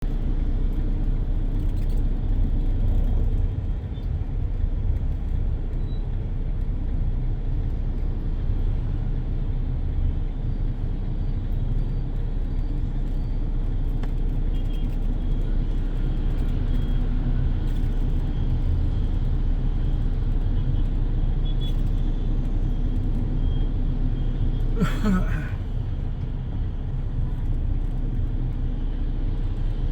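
Dense motorbike and street traffic: a steady rumble of many small engines passing, with a few faint short high beeps and a brief louder burst about 25 seconds in.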